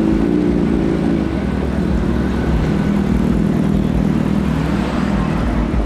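Motor vehicle engine running steadily with a continuous low drone and a hum of even tones, without revving.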